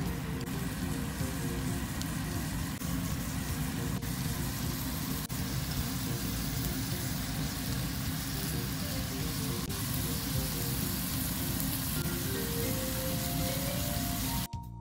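Pork-wrapped enoki mushroom rolls sizzling steadily in hot oil in a frying pan, with light background music over it; a rising run of notes near the end.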